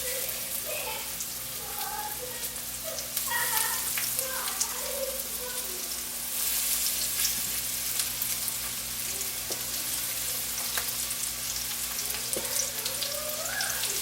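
Thin breaded chicken cutlets frying in hot olive oil in a skillet: a steady sizzle full of fine crackles and spits. It gets louder about three seconds in and again around six and a half seconds.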